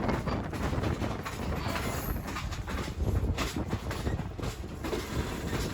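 Moving passenger train heard from aboard one of its cars: a steady rumble of wheels on rail, with frequent clicks and rattles.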